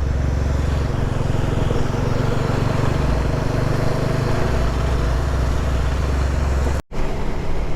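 Motorcycle riding at steady road speed: the engine running with a deep wind rumble on the microphone. The sound cuts out for a split second about seven seconds in.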